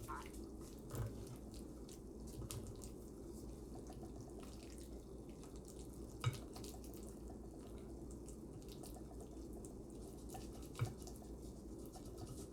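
Quiet eating sounds: small wet clicks and a few sharp taps, likely a fork against a plate, the loudest about six and about ten and a half seconds in, over a steady low hum.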